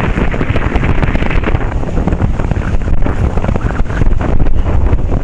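Loud wind buffeting on the microphone of a rider on a moving Honda 750 motorcycle: a steady, rumbling rush that covers any engine note.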